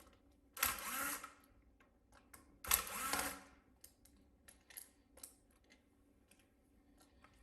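Two short bursts of scraping, whirring mechanical noise, about half a second in and again near three seconds in, followed by a few light clicks as small laptop parts are handled during disassembly.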